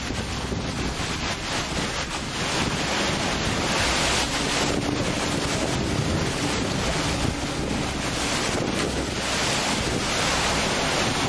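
Storm wind buffeting the microphone in gusts, over a loud steady rush of noise like surf.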